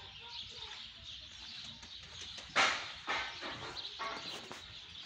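Birds chirping in the trees, with one loud, harsh call about two and a half seconds in, followed by a few shorter calls.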